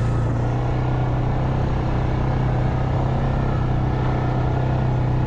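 Engine of a four-wheel-drive farm vehicle running at a steady, low drone while it drives slowly along a muddy dirt track.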